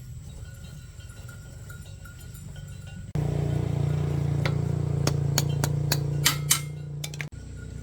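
Steady low machine hum that suddenly gets louder about three seconds in, with a run of sharp metallic clinks over it, then drops back abruptly near the end.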